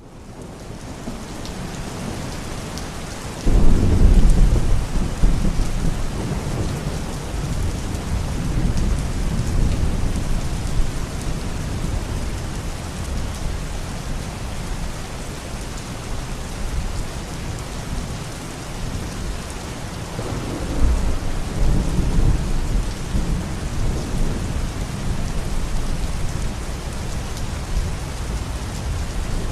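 Steady rain with rolling thunder, fading in from silence at the start. A sudden low thunder rumble breaks in about three and a half seconds in and rolls on for several seconds, and a second rumble comes about two-thirds of the way through.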